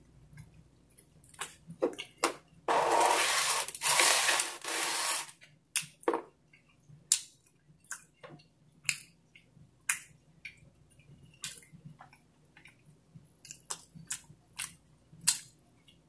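Close-mic'd chewing and mouth sounds of a man eating pizza: scattered short wet clicks and smacks. About three seconds in there is a louder stretch of noise lasting roughly two and a half seconds.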